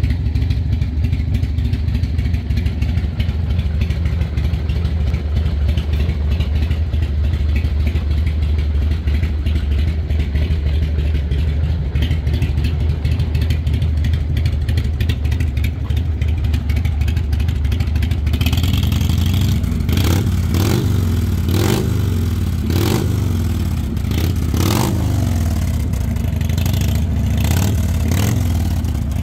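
Harley-Davidson Softail trike's V-twin engine idling steadily, then revved in a series of short throttle blips, each rising and falling in pitch, over the last ten seconds or so.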